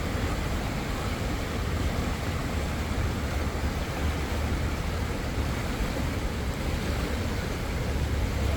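Spring water rushing steadily in an unbroken flow, with a deep low rumble under it.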